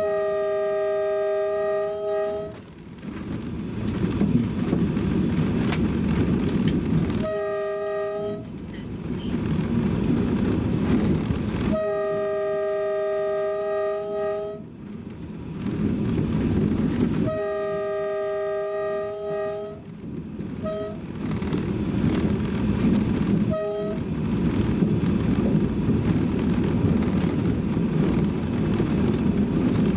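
Train horn sounding repeatedly over the low rumble of a moving train: four blasts of one to three seconds each, then two short toots a few seconds apart near the end.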